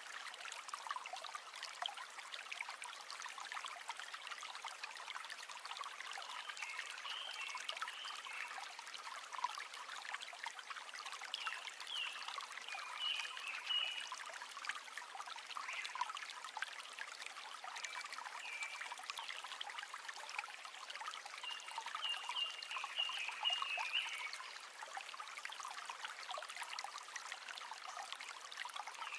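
River water trickling and babbling steadily, with a few brief higher-pitched tones now and then.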